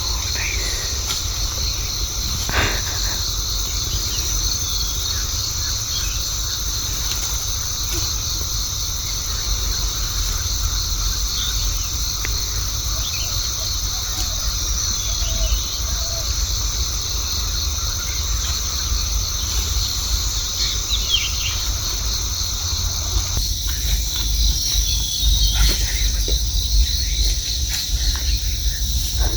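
Steady, high-pitched chorus of forest insects, over a low rumble on the microphone, with a few faint bird chirps.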